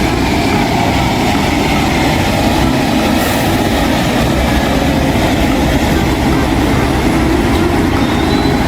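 Cement mixer truck running: a steady heavy mechanical rumble.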